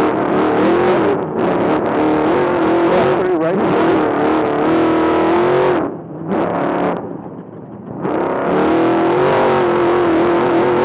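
Off-road race trophy truck's engine running hard at high revs. About six seconds in it backs off, drops lower and quieter for a couple of seconds, then climbs back to full revs.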